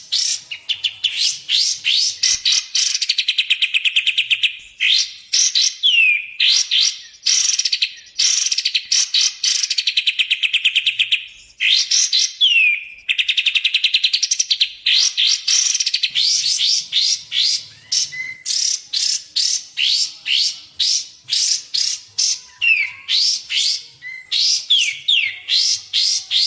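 Recorded songbird song of kapas tembak and cucak jenggot birds, in a masteran track for training caged songbirds: rapid runs of high, sharp, down-sweeping notes and fast trills, in loud phrases separated by brief pauses, with a few longer falling whistles.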